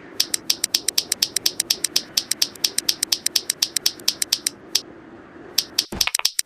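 Clicky keyboard keys pressed rapidly, giving a fast, even stream of sharp clicks, about eight or nine a second. The clicks stop briefly about five seconds in, then start again.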